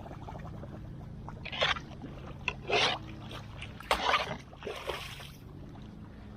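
A few short splashes of floodwater, one every second or so, over a steady low hum.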